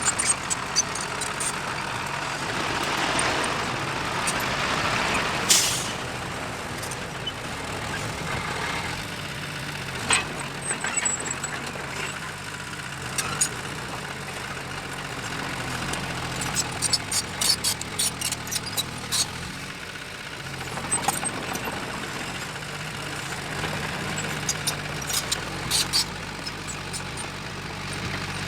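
Heavy diesel earthmoving machinery running steadily, with many sharp clicks and knocks over the engine, bunched in two clusters in the second half. There is one loud sharp burst about five and a half seconds in.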